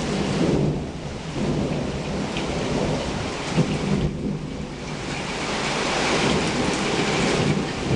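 Heavy rain pouring down while thunder rumbles, swelling and easing over several seconds.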